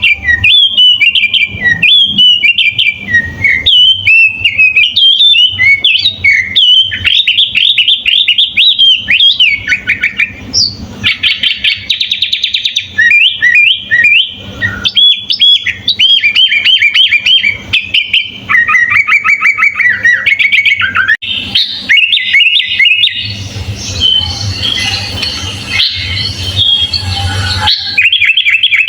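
Sooty-headed bulbul (kutilang) singing without pause: a rapid string of sweeping chirps and whistled notes, growing busier and denser near the end.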